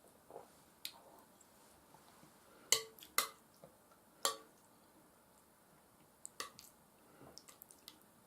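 A few sharp clinks of a utensil against a dish, the loudest three close together in the middle, each with a short ring. Quiet wet eating sounds between.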